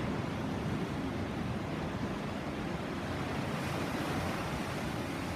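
Sea surf: a steady, continuous rush of waves.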